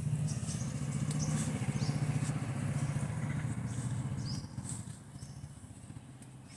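A motor vehicle's engine running past with a low pulsing rumble that fades away about four and a half seconds in, while sparrows chirp faintly and sporadically in the trees.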